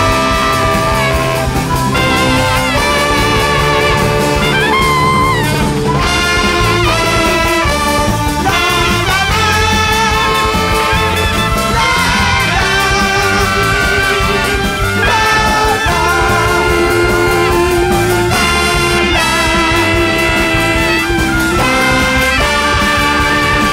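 Large jazz big band playing live, a horn section of saxophones and trumpet carrying held and wavering melody lines over drums and bass.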